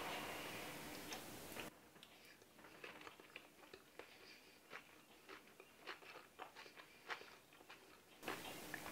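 A person chewing a hot mouthful of chicken pot pie: faint, scattered little mouth clicks.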